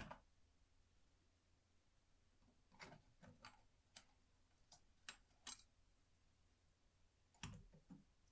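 Irregular light clicks and taps of small tools on small watch parts, about a dozen scattered over the seconds, with the sharpest about five and a half seconds in and a duller knock about a second later.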